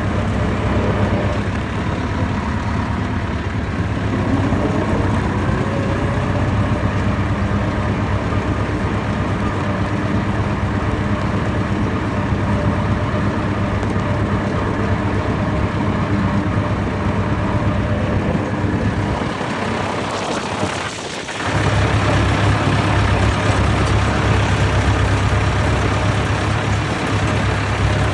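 Vintage tractor engines running steadily. A short dip comes about two-thirds of the way through, after which a deeper engine note is louder.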